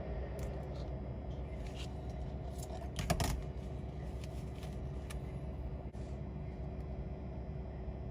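Steady low machine hum with scattered light clicks and taps, and a louder cluster of clicks about three seconds in.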